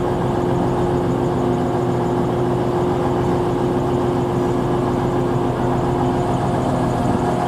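A train running steadily in the station: an even mechanical hum with a few constant tones that hold at one pitch throughout.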